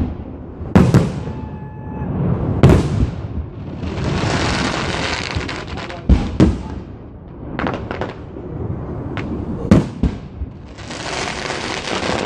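Fireworks display: sharp booms of shells bursting about a second in, near three seconds, around six seconds and just before ten seconds. Long stretches of dense crackling hiss fill the gaps between the booms.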